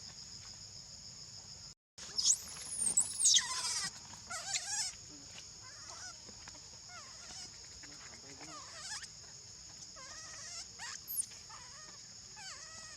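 Steady high-pitched insect drone, cicadas or crickets, with loud gliding squealing calls about two seconds in and again around ten seconds, and softer short calls between them. The sound drops out briefly just before the first squeals.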